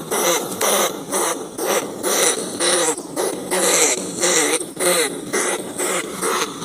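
Rats squealing in a fast run of short, wavering cries, about two or three a second.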